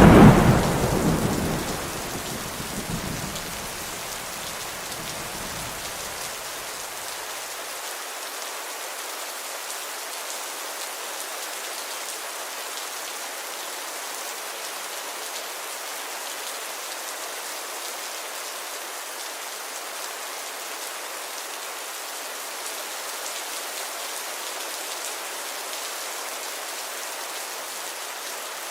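Steady rain falling, a continuous even hiss. A thunderclap peaks right at the start and rumbles away over about seven seconds, leaving only the rain.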